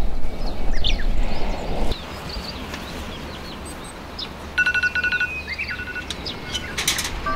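Small birds chirping, with a quick trilling run of repeated notes about four and a half seconds in. A low rumbling noise fills the first two seconds, and a few sharp clicks come near the end.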